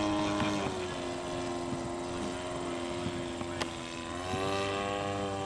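Model airplane engine and propeller running, its note dropping about half a second in and climbing back up near four seconds in. A single sharp click near the end.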